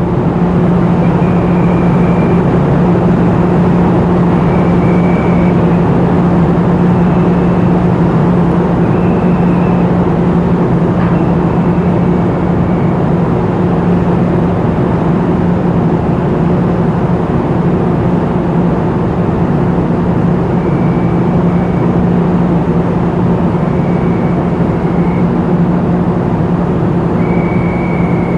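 Loud, steady engine drone with a strong low hum, heavy machinery running during cargo handling of trucks at a ferry quay. Short high-pitched tones sound about ten times at irregular intervals over it.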